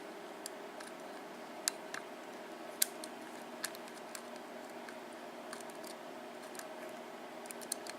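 Lock pick and tension wrench working the pins of an ABUS 7240 lock cylinder: a handful of small, sharp metallic clicks at irregular intervals, the loudest about two to three seconds in, over a steady background hum.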